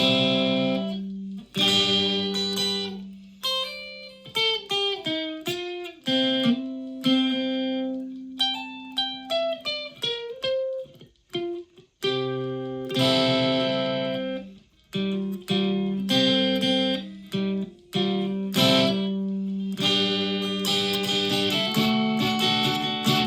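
Solid-body electric ukulele played through a clone of the Rift EL34 amp pedal, on a clean, bright setting. It opens with strummed, ringing chords, turns to a run of single picked notes through the middle, then goes back to chords.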